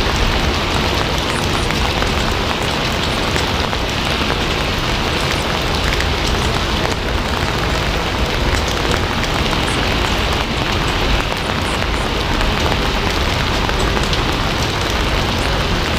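Steady heavy rain falling on a surface, a dense even hiss with many small drop impacts and a low rumble underneath.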